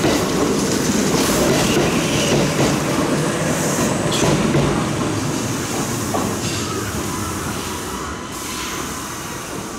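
Kintetsu electric train pulling away from the platform, its wheels rumbling and clicking over the rails. The sound slowly fades as the last cars go by and the train moves off.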